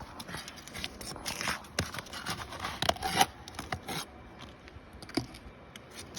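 Asphalt roof shingles being pried up, with irregular scraping and tearing cracks as the shingles rip instead of lifting cleanly, the loudest about three seconds in.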